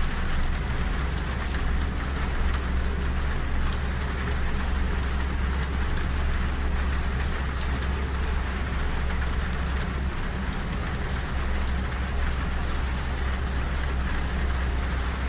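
Rain pattering on a train carriage window, with the steady low rumble of the moving train beneath it.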